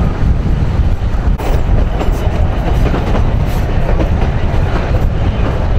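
Broad-gauge heritage train running along the track: a steady heavy rumble, with the wheels giving several sharp clicks over the rail joints.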